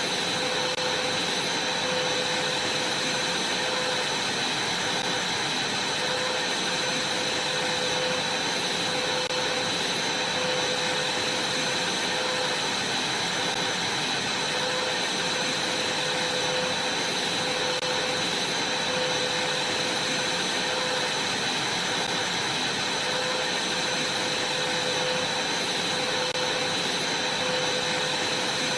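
Vacuum cleaner running steadily: an even rushing hiss with a constant high whine, unchanging throughout.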